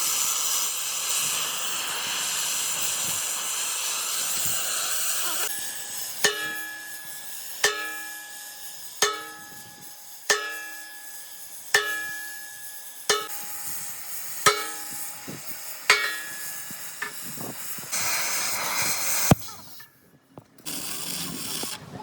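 A steady hiss, then a hammer striking steel about nine times at an even pace, roughly one blow every second and a half, each blow ringing on. A short hiss and a sharp click come near the end.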